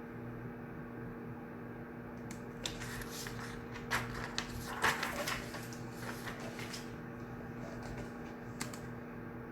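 Steady hum of a study room, with a cluster of small clicks, knocks and rustling from objects being handled at a desk, loudest about four to five seconds in, and one more click near the end.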